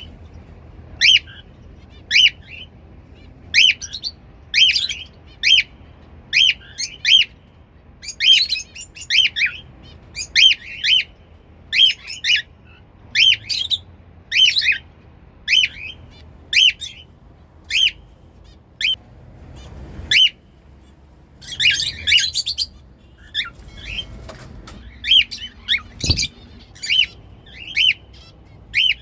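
Cockatiels giving their flock call: short, sharp whistled calls, each rising and falling, repeated roughly once or twice a second, with a few bursts of busier chattering. A brief low thump comes near the end.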